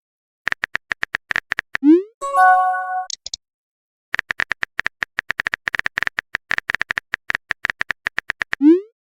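Sound effects of a phone chat: rapid keyboard-tap clicks as a message is typed, a short rising swoosh and a brief chime as it is sent or arrives, then another long run of typing clicks ending in a second swoosh.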